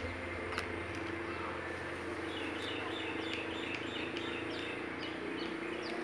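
A bird chirping: a quick series of short, high, falling notes, starting about two seconds in, over a steady low hum.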